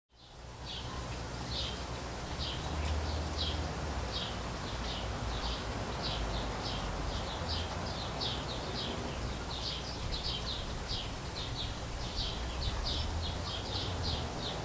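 Small bird chirping in short, high, sharp notes, about two a second and unevenly spaced, over a steady hiss and a low rumble.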